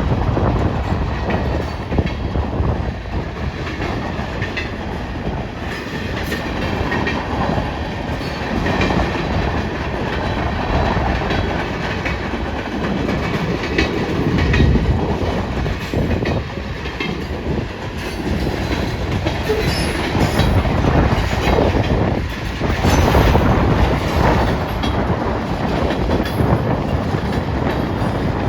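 Freight cars of a long manifest train rolling past, the wheels clicking steadily over rail joints. Heavy wind is buffeting the microphone.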